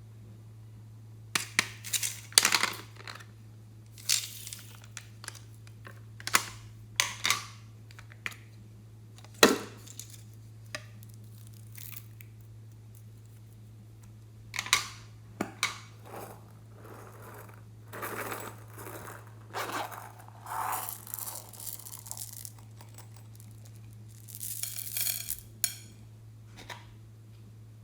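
Hands working slime and small items: irregular sharp crackles, pops, taps and crinkling in short bursts, with denser, longer stretches of crinkly noise in the second half. A steady low electrical hum runs underneath.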